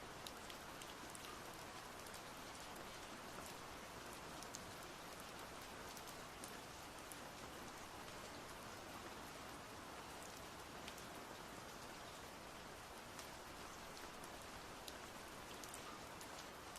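Faint, steady hiss with many small scattered ticks, rain-like in character.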